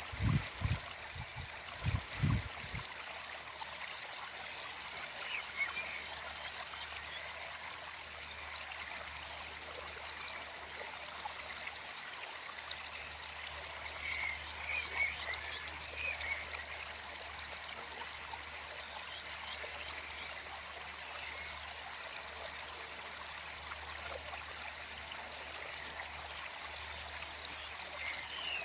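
Forest stream flowing steadily, with small songbirds chirping in short quick runs of notes now and then. A few loud deep low pulses come in the first three seconds.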